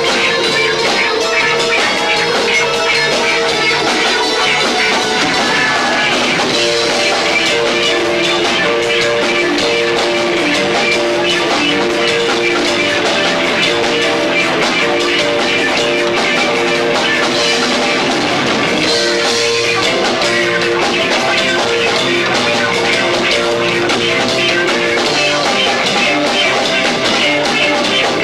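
Live rock band playing loud and fast, with drum kits and electric guitar, recorded in low fidelity on a camcorder microphone.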